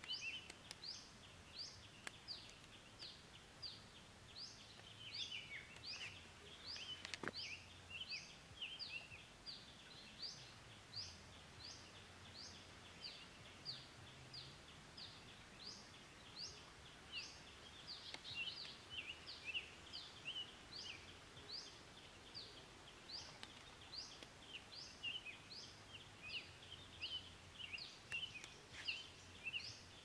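Outdoor ambience of birds chirping: a steady run of short high notes, about two a second, over softer twittering, with a faint click or two.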